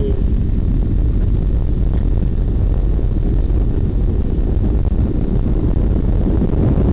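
Airliner landing heard from inside the cabin: a loud, steady low rumble of engines and rushing air.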